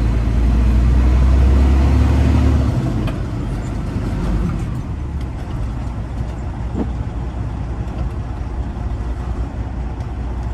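Freightliner Classic XL semi-truck heard from inside the cab while driving: a steady diesel engine drone with road noise. A heavier low rumble in the first two and a half seconds eases off to a lighter, even drone.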